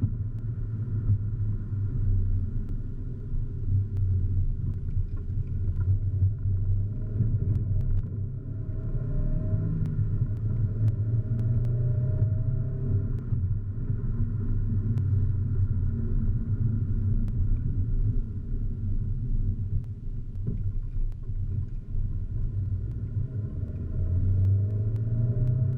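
Volkswagen Scirocco driving: a steady low rumble of engine and road noise, with the engine note rising a little now and then.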